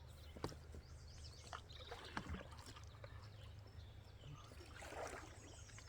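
Faint oar strokes in water from a small inflatable rowing boat: light splashes and drips, with a sharp knock about half a second in and a fuller splash near the end.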